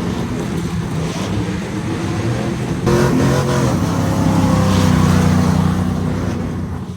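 Truck engine running, then revving up suddenly about three seconds in and easing back down near the end.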